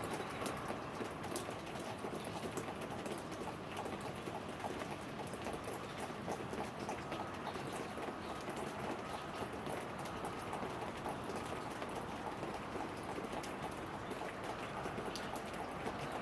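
Steady rain falling, with the fine patter of many drops hitting surfaces.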